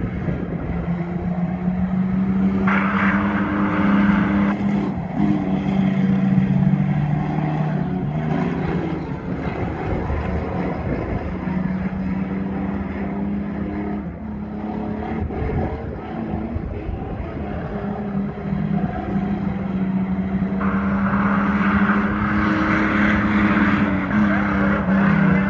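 Mini-truck race engines running at speed around an oval track, loud throughout. The engine pitch drops and climbs again several times as the drivers lift off into the turns and get back on the throttle.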